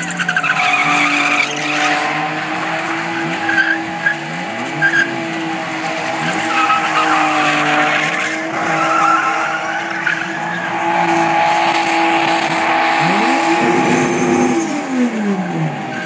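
Car engine held at high revs through a burnout, the tyres spinning and screeching, with the revs rising and falling now and then and easing off near the end.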